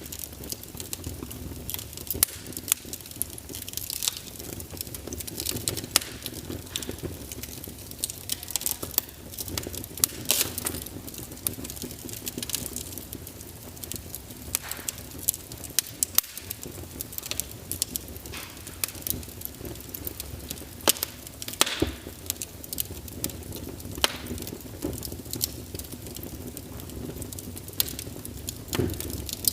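Wood fire crackling in a fireplace, with frequent irregular sharp pops and snaps over a steady low rush.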